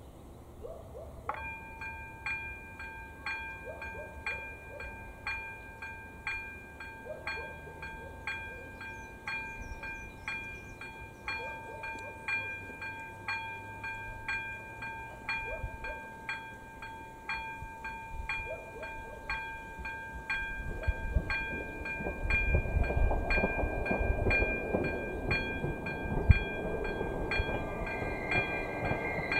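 AŽD 97 level-crossing signal with its ZV02 electronic bell starting up about a second in and ringing in a steady, even rhythm of repeated chimes: the crossing warning for an approaching train. In the last several seconds a ČD class 814 RegioNova diesel railcar approaching under the bell grows louder.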